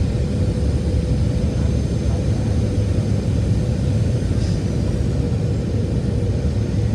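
Steady cabin noise inside a Boeing 737-700 airliner: a deep, even rumble of the engines and rushing air, with a thin steady hum over it.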